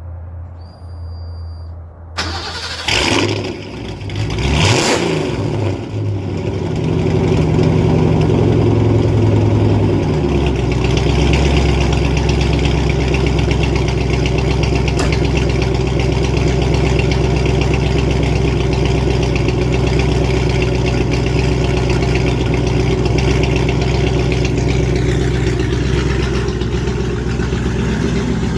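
Supercharged 4.6-litre DOHC V8 from a 2003–04 Mustang SVT Cobra ('Terminator'), started for the first time after the swap. It cranks unevenly for a few seconds, catches, runs fast briefly, then settles into a steady idle about ten seconds in.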